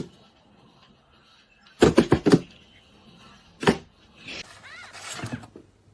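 A quick run of sharp thumps about two seconds in, then a single thump a little later.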